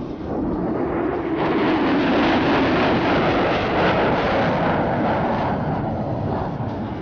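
A U.S. Air Force F-35A Lightning II's single F135 afterburning turbofan roaring as the jet flies past. The sound swells over the first second or so, stays loud for a few seconds, then fades from about five seconds in.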